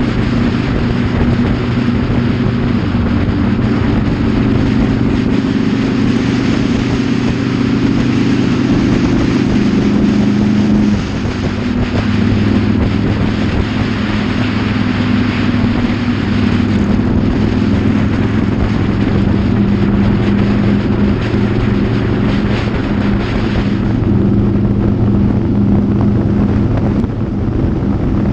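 Motorcycle engine running steadily at road speed, with wind rushing over the microphone. About eleven seconds in the level dips briefly and the engine note steps lower, and the wind hiss eases in the last few seconds.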